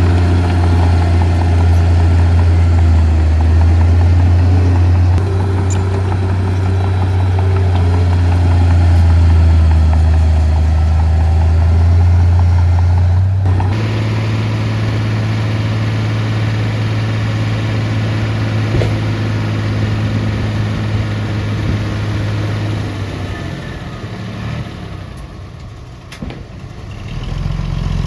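Heavy earth-moving equipment's diesel engine running steadily with a deep hum. About halfway through the sound changes abruptly to another steady engine note, which fades somewhat near the end before picking up again.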